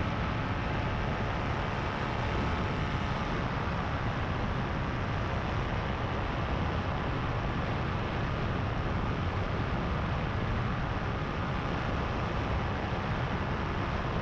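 Power2Fly RS paramotor's engine and propeller running steadily in powered flight, a constant even drone with no change in throttle.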